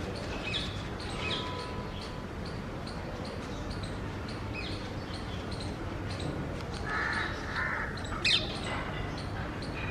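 Birds calling, among them rose-ringed parakeets: many short high chirps, two harsh raspy calls about seven seconds in, and one loud shrill falling screech about eight seconds in.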